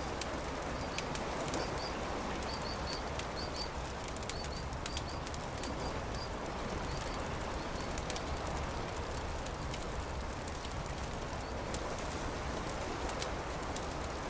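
Campfire crackling: sharp pops scattered over a steady rushing background, with a run of short high bird chirps in the first few seconds.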